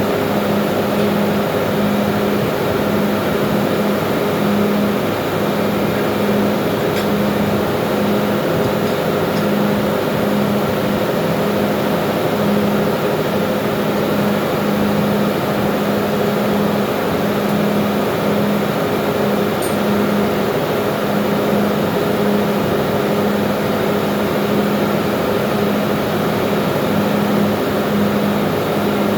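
Steady, loud machinery drone of an engine room, with a hum that swells and fades about once a second.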